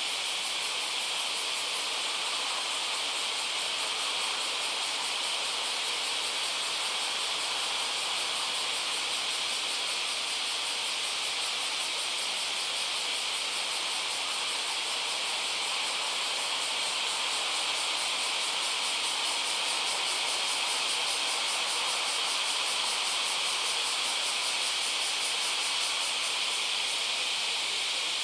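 A dense chorus of singing insects: a steady, high-pitched trilling that does not let up.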